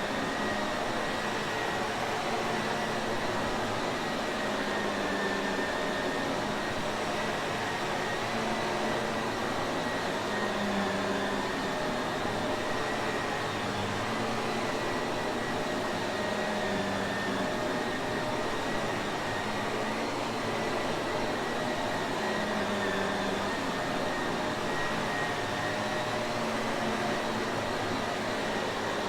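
Shark Navigator vacuum cleaner running steadily, an even rushing noise with a thin high whine from the motor and no change in speed.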